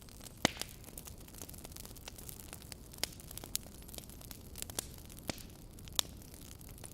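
Logs burning in a fireplace: a steady low rumble with frequent small crackles and a few sharper pops, the loudest about half a second in and again near six seconds.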